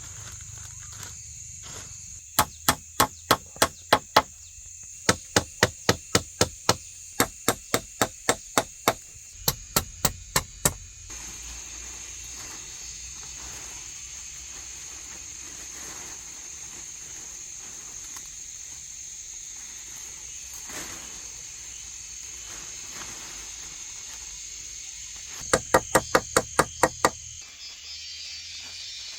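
A blade chopping quickly at wood, about four or five strikes a second, in three runs separated by pauses. A steady high insect drone, like cicadas, goes on throughout.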